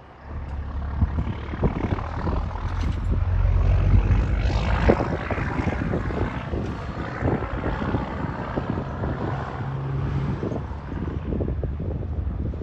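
Diesel truck passing by, its engine and tyres swelling to their loudest about four to five seconds in, then fading slowly.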